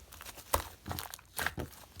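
Green slime being squeezed and played with by hand, giving about four sharp sticky clicks and pops.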